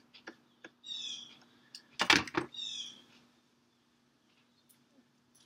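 A songbird singing a short phrase of quick, falling high notes, repeated about every second and a half. About two seconds in there is a loud, brief clatter. Faint light clicks and a steady low hum sit underneath.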